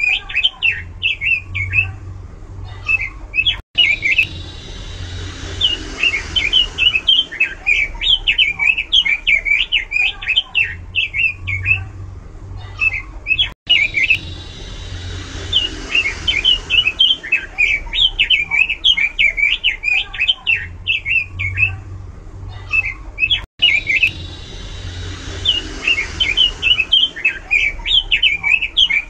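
Pekin robin (red-billed leiothrix) singing loudly in fast, varied runs of high chirping and warbling notes. The song breaks off briefly about every ten seconds and the same phrase sequence starts again.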